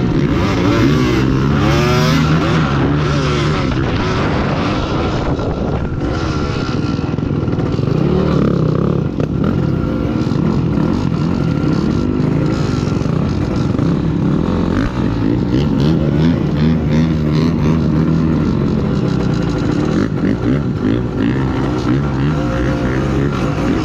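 KTM 250 dirt bike engine being ridden hard, revving up and down, its pitch rising and falling again and again.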